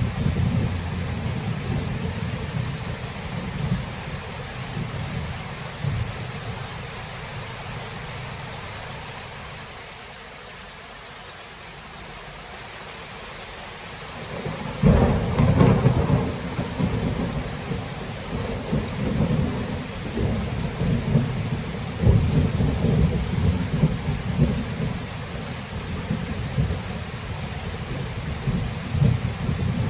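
Steady rain with thunder. A low rumble fades away over the first dozen seconds, then a sudden thunderclap about halfway through rolls on into uneven rumbling for several seconds.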